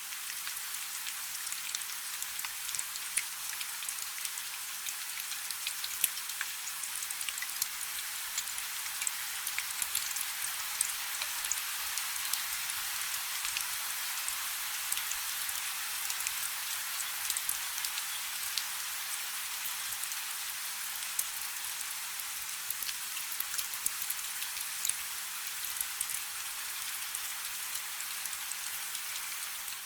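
Steady rain falling on a river, an even hiss with many individual drops pattering sharply through it.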